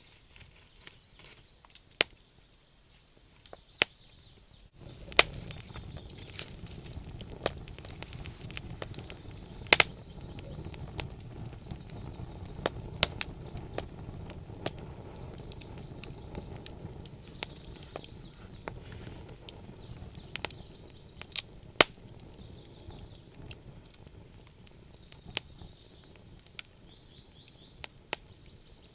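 Wood fire burning in a stove, crackling with sharp pops at irregular intervals. About five seconds in, a low steady rumble of the burning comes in under the pops.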